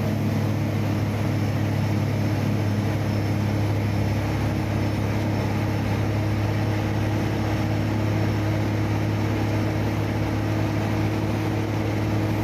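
Heavy truck's engine running steadily while under way, a constant low drone with no change in pitch.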